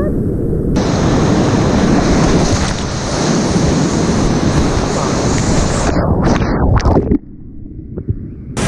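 Whitewater rushing and splashing loudly over a kayaker's camera microphone. Near the end the sound turns dull and much quieter for about a second and a half, then comes back full.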